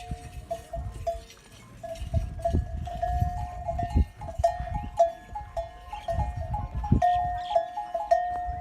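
Livestock neck bells, on camels, clanking irregularly as the animals move. Two or three bell pitches are struck again and again, each ringing on briefly, over low rumbling thuds.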